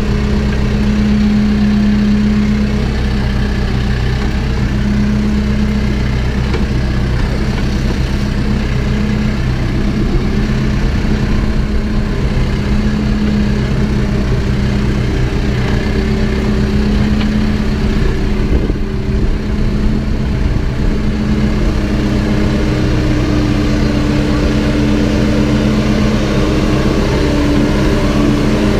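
Backhoe's diesel engine running steadily at a low, even pitch, rising slightly over the last few seconds.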